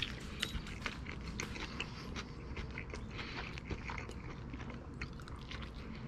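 A person chewing a bite of a pork chile verde taco, with many small, irregular clicks and crunches of the food.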